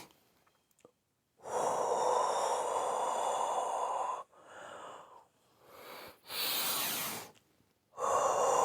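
A person doing the qigong spleen healing sound "hoo": a long, breathy exhalation blown out from the throat, a shorter breath in, then another long exhale beginning near the end.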